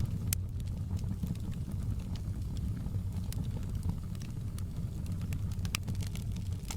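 Fireplace crackling: scattered sharp pops, a few a second or less, over a steady low rumble.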